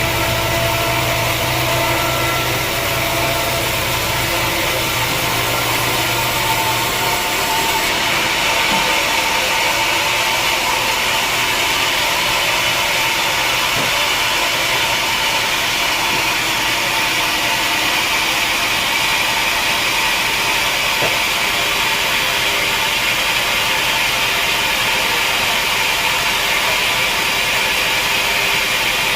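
Sawmill machinery running steadily. An engine-like hum with a low drone gives way after about seven seconds to a louder, even hiss.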